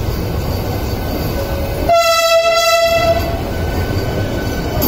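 Vande Bharat Express (Train 18) electric multiple unit rolling slowly along the platform with a steady low rumble. About two seconds in, a single horn blast sounds for about a second.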